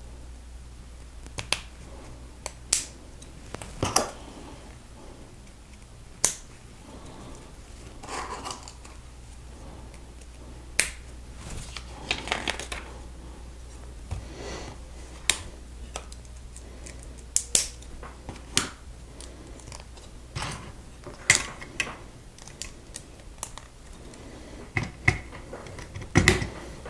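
LEGO plastic pieces being handled and pressed together: sharp irregular clicks and snaps, with softer rubbing and rattling of parts between them.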